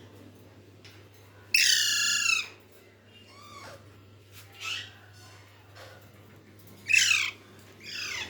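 Pet parrot calling: a loud, wavering squawk about a second and a half in, a softer call in the middle, then two quick calls that slide downward near the end.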